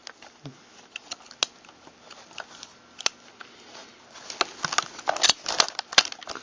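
Small steel shotgun parts clicking and scraping as a part is worked into a pump-action receiver: a few separate clicks at first, then a quick run of clicks and rattles in the last two seconds.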